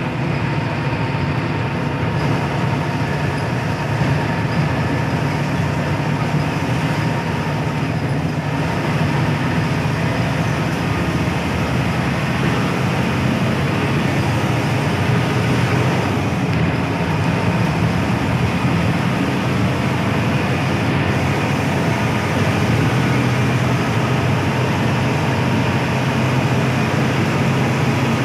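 Hino AK8 bus with its diesel engine mounted at the front, running steadily on the road: a continuous low engine drone with tyre and road noise.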